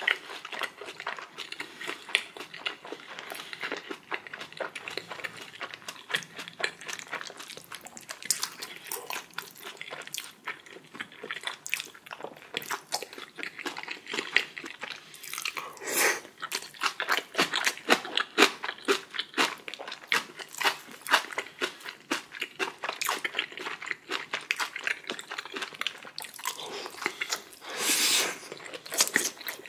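Close-miked eating: a person biting and chewing food, with a steady run of crunchy, wet mouth clicks. A couple of louder noisy bursts come about halfway through and near the end.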